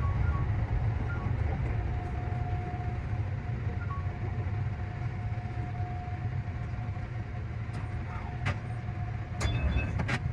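JR Central 315 series electric train running: a steady low rumble with a faint steady whine, and a few sharp clicks near the end.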